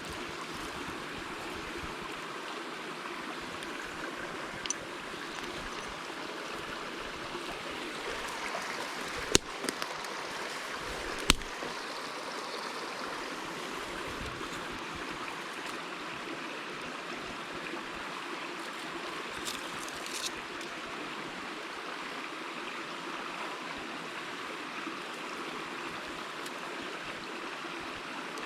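A mountain stream rushing steadily, with a couple of sharp clicks about nine and eleven seconds in.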